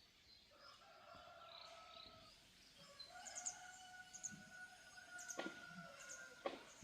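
Faint bird calls: short high chirps repeating from about three seconds in, over a faint long held call. Two brief knocks come near the end.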